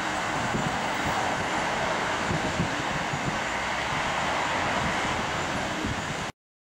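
Jet airliner engines heard from the airfield, a steady rushing noise that swells slightly and then cuts off abruptly near the end.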